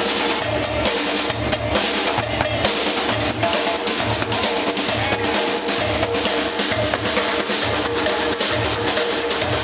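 Brazilian drum ensemble playing: a steady deep bass-drum beat about twice a second under dense snare and higher percussion hits.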